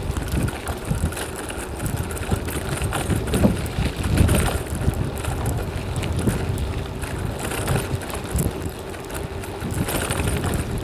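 Strong headwind buffeting the microphone of a moving bicycle in uneven low rumbling gusts, strongest about four seconds in.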